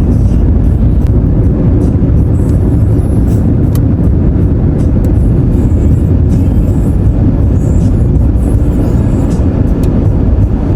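A car driving along a road: a steady, loud low rumble of road and engine noise.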